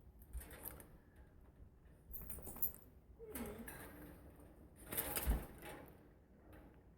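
Pet bird moving about, making faint scattered clicks and scratches, with a louder brief rustle about five seconds in.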